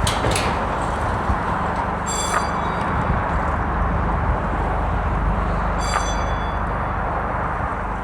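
Steady outdoor rumble of vehicles and traffic. Two short high-pitched chirps sound over it, about two seconds in and about six seconds in.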